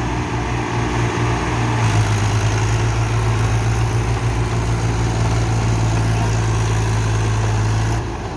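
Tractor diesel engine running steadily. It drops in level near the end.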